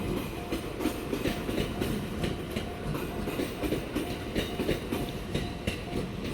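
A train passing at a level crossing, its wheels clattering rhythmically over the rail joints with a steady rumble.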